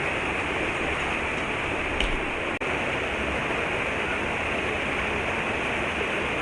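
Steady rush of water cascading down a canyon waterfall, an even unbroken noise. A small knock about two seconds in.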